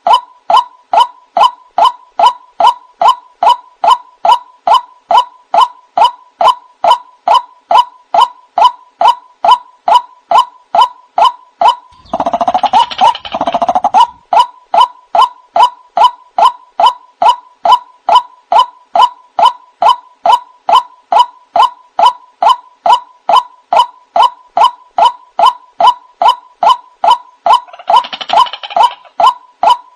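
White-breasted waterhen (ruak-ruak) calling in an even, unbroken series of loud notes, about two to three a second, with a rougher, fuller burst of calling near the middle and again near the end. It is a lure-call recording used to draw waterhens in.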